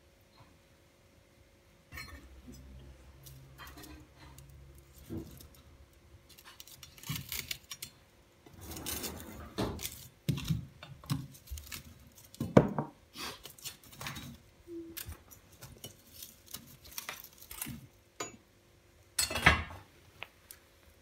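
Irregular clinking and clattering of metal and other hard objects, with scattered knocks; the loudest clatters come about halfway and near the end. A low steady hum runs for a few seconds near the start.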